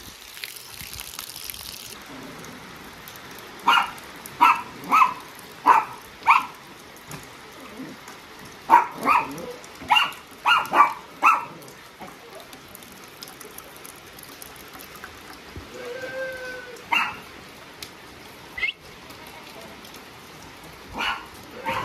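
A dog barking in two runs of five or six short barks, with a longer drawn-out call later and a few more barks near the end, over the steady hiss of rain.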